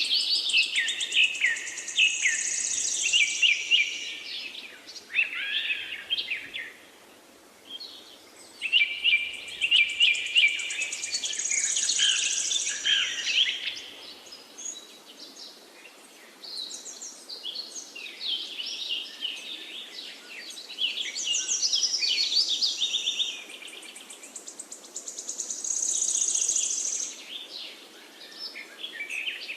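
Songbirds singing in phrases of a few seconds each, made of rapid chirps and high trills with short pauses between them, over a faint steady hiss.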